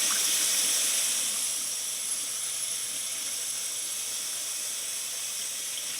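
Water running from a tap in a steady hissing stream, easing slightly about a second in.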